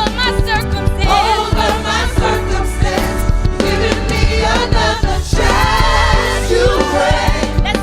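Gospel music: a choir singing with melismatic vocal runs over a steady bass-heavy band accompaniment.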